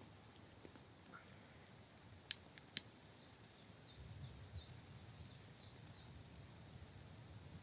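Near silence broken by three sharp clicks in quick succession a couple of seconds in, then a few faint high chirps and a low rumble of background noise.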